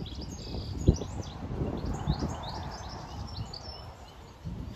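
Small birds chirping and singing, many short quick calls, over an uneven low rumbling noise with a sharp thump about a second in.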